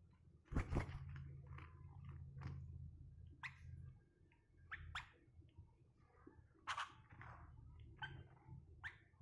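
Sooty-headed bulbul making a string of short, sharp sounds at uneven intervals, with a low hum through roughly the first half.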